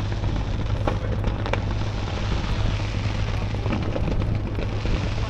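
Fireworks going off: a few sharp bangs and crackles about a second in, over a steady low rumble.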